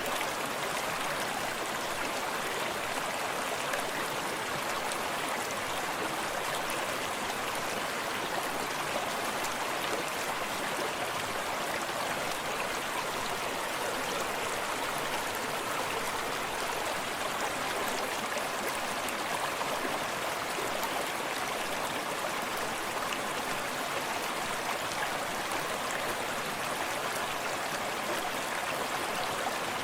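Small forest stream flowing steadily, an even rushing of running water with fine splashing and trickling over stones.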